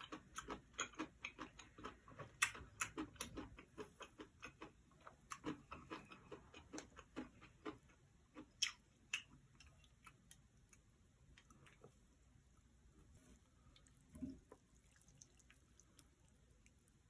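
Close-miked chewing: quick wet mouth clicks, about three a second for the first eight seconds, then sparser. A soft low knock sounds about fourteen seconds in.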